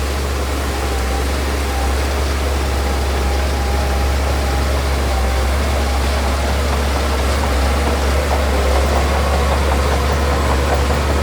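Heavy diesel earthmoving machine engine running steadily with a deep, even hum. A faint rapid ticking joins in near the end.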